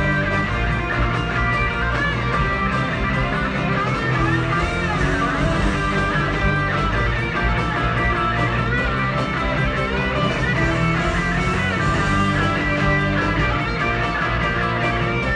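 Rock band playing, led by an electric guitar with a lead line of bending, wavering notes over a steady bass and rhythm backing.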